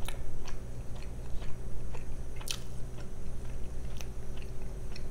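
A person chewing food close to the microphone with the mouth closed, with soft wet mouth clicks and a few sharper clicks.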